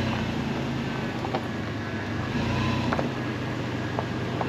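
Off-road vehicle's engine running steadily at low speed while crawling over rough ground, with a few short sharp ticks over it.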